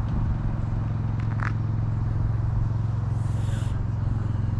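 A steady low engine hum with a fast, even pulse, like an engine idling, with a short scratchy sound about a second and a half in and a brief hiss a little after three seconds.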